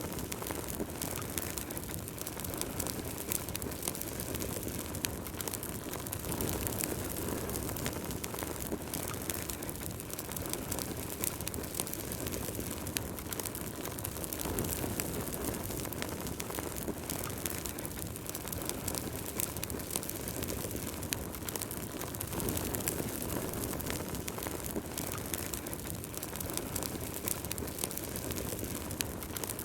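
Wood fire burning in a fireplace: a steady low rush of flames with frequent small, irregular crackles and pops from the burning logs.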